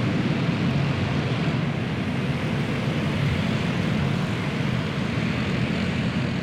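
A pack of racing karts with small single-cylinder clone engines running together on the track, making a steady, unbroken drone.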